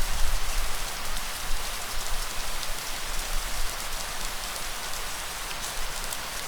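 Steady light rain falling on a surface, a continuous hiss with many small drops ticking through it and a faint low rumble underneath.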